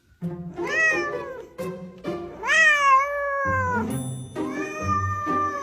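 A cat meowing: three long, drawn-out meows that rise and then fall in pitch, over background music.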